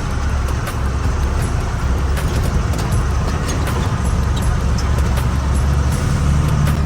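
Truck under way: a steady low engine and road drone, with frequent small rattles and knocks.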